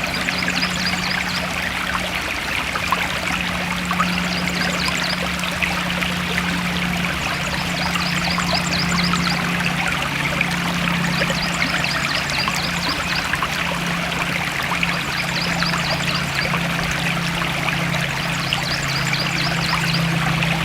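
Forest stream running steadily with a constant rushing trickle. Short bursts of rapid high chirping recur every couple of seconds over the water, with a steady low hum underneath.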